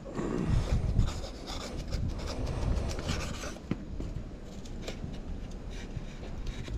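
Irregular scraping and rubbing with scattered light knocks, like handling on a hard surface during food preparation.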